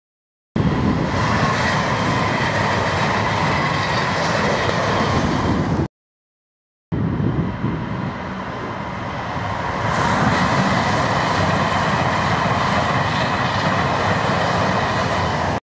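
A passenger train passing close by, a loud steady rumble of wheels on rail with a thin high whine running through it. The sound cuts to silence for about a second near the middle, then carries on.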